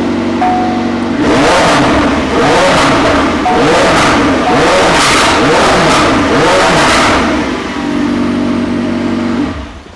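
McLaren 720S twin-turbo V8 idling, then revved hard over and over for about six seconds, with loud exhaust pops and bangs, before settling back to idle.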